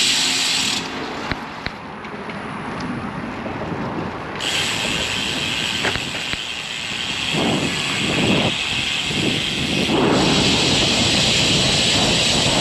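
Wind noise on the microphone of a riding cyclist, with a steady road hiss that drops away briefly near the start and returns after about four seconds. Heavier, low wind buffeting comes in during the second half.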